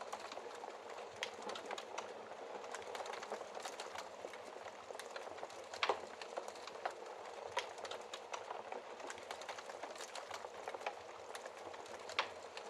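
Wood fire in a fireplace crackling: a steady hiss of small crackles with frequent sharp pops, the loudest about halfway through and again near the end.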